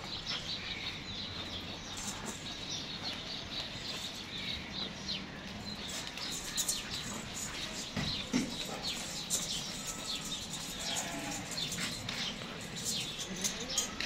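Small birds chirping repeatedly in the background, many short quick calls.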